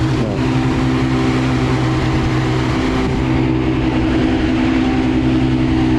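A car engine idling steadily, a constant low hum that holds one pitch with no revving.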